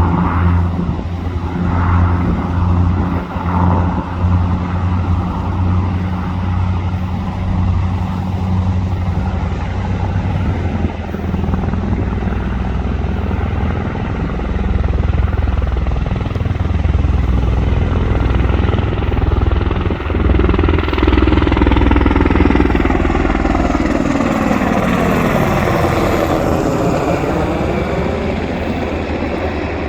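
UH-60 Black Hawk helicopter flying low: a steady low rotor thrum, then from about twenty seconds in a louder engine and rotor sound whose pitch sweeps down over several seconds as the helicopter passes close by.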